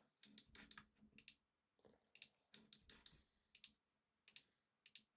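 Faint computer mouse and keyboard clicks, about fifteen, irregularly spaced.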